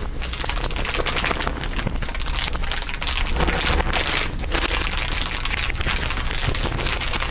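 Dense, continuous crinkling, several layers of crinkle sounds overlaid, a fine crackle of many small clicks with no pause.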